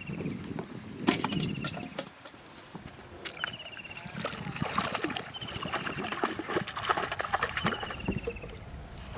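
A bird calling repeatedly, each call a short falling chirp, over irregular splashes and clicks of water being stirred.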